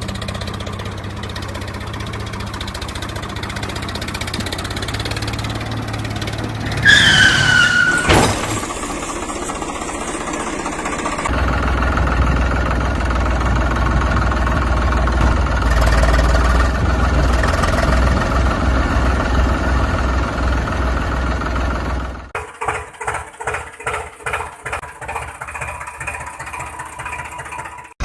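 Engine sounds of heavy vehicles, most likely added effects: a steady running hum, a short falling whistle about seven seconds in, then a deeper rumble that gives way near the end to a rhythmic chugging of about two beats a second.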